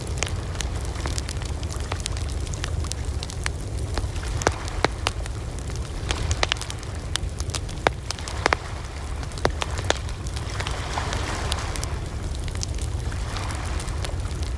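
Wood campfire burning with a steady low rumble and irregular sharp crackles and pops.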